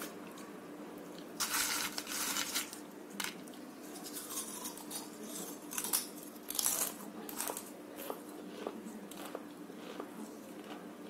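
Chewing a mouthful of crisp papdi gathiya (fried gram-flour crisps) with shredded papaya: irregular crunching, loudest in the first seven seconds or so, then softer, sparser crunches and mouth clicks.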